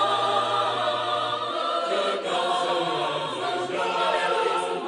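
Choir singing a hallelujah hymn, holding long sustained chords, moving to a new chord about two seconds in.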